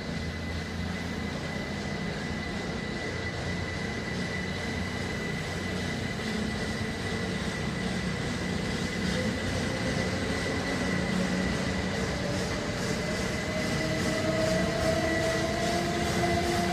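Train approaching, its rumble growing steadily louder, with a steady high whine and, in the second half, a tone rising slowly in pitch.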